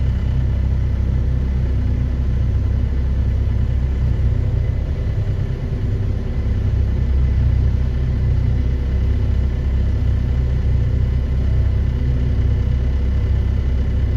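Heavy diesel engine of a Hitachi EX2500 mining excavator running steadily under work, a deep, continuous drone that eases slightly for a moment near the middle.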